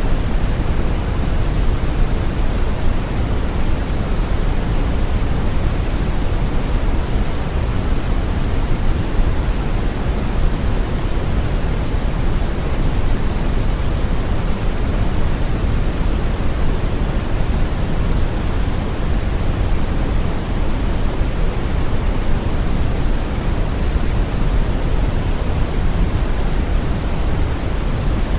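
Steady brown noise: an even, deep hiss, heaviest in the low end and falling off toward the highs, with no changes or events.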